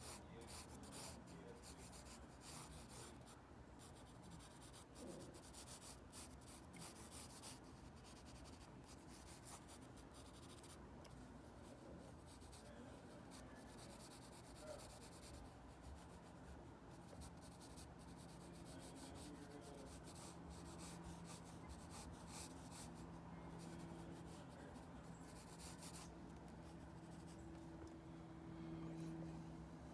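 Faint scratching of a drawing tool on paper in bouts of quick strokes with short pauses between them. A faint steady low hum comes in about two-thirds of the way through.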